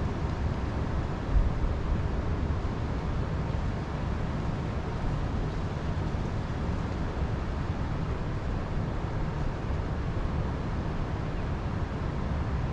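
Steady wind noise, a low rumble buffeting the microphone, with one brief stronger gust about a second and a half in.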